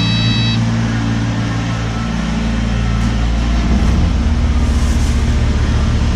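Kubota KX057-5 excavator's diesel engine running steadily. A short high steady tone ends just after the start, and about four seconds in the engine note changes to a rapid low pulsing.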